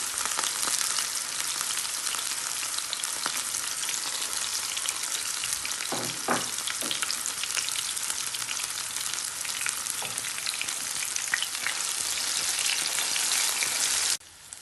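Onions and garlic paste frying in hot oil, a steady loud sizzle with a few knocks around six seconds in; it cuts off abruptly just before the end.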